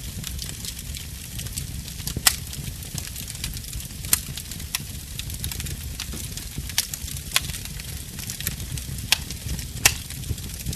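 Wood fire burning in a fireplace: a low steady rumble and hiss from the flames, broken by sharp crackles and pops from the burning logs, about seven in ten seconds at irregular intervals.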